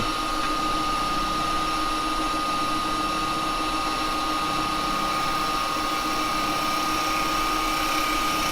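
Steady hum of woodturning workshop machinery running, with a constant high-pitched whine over an even whir.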